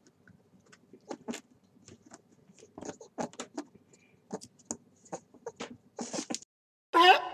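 Sparse, irregular soft clicks and ticks, a few each second. About seven seconds in, a much louder call cuts in, its pitch sweeping up and down again and again.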